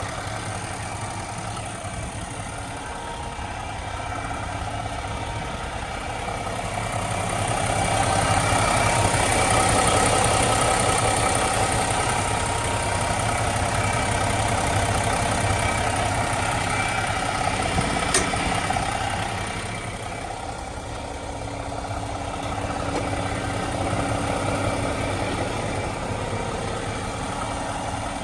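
Cummins X15 diesel engine in an International HX620 tractor idling steadily. It gets louder for about ten seconds in the middle, then falls back, with one sharp click shortly before it drops.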